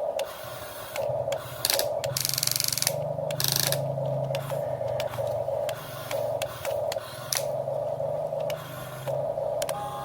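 Small electric motors and gearboxes of radio-controlled construction models whirring in short on-off runs as they are driven, with scattered clicks and two brief hissing bursts about two to three and a half seconds in.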